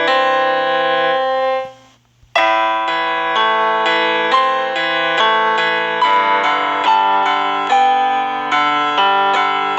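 Piano music: a held chord dies away, there is a brief break about two seconds in, then chords are played at an even pace of about two a second.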